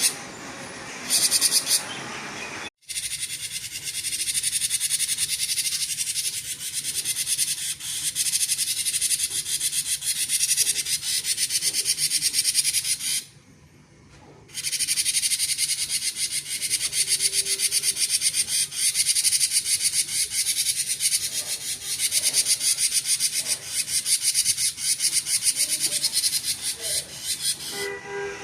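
Cinereous tit (gelatik batu) singing a dense, rapid chatter of short high repeated notes in the buzzing 'konslet' style, almost without pause. It breaks off for about a second roughly halfway through.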